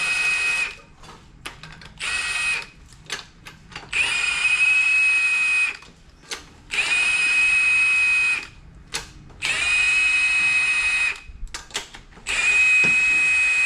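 Cordless power tool whining in about six bursts of one to two seconds each, with short pauses between. This is the sound of bolts being run out during an engine teardown.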